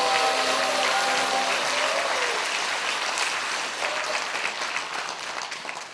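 Audience applause over a harmonica ensemble's last held chord, which fades out in the first two seconds. The clapping then thins into scattered separate claps and grows quieter near the end.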